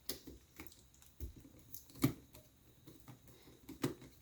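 Small scattered clicks and taps of a screwdriver and fingers working on a laptop's internals while unscrewing the drive's retaining screw, with two louder knocks about two seconds in and near the end.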